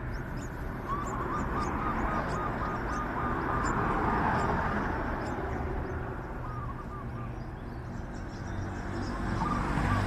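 A bird calling a rapid run of about a dozen short, identical notes, starting about a second in and lasting some two seconds, with a few more notes later and near the end. Under it a steady low rumble and faint high ticking.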